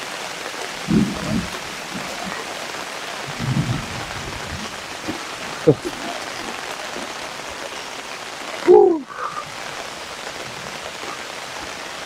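Steady rain falling, heard as an even hiss throughout. A few short low sounds break through, the loudest a brief sound falling in pitch, like a voice, about three-quarters of the way through.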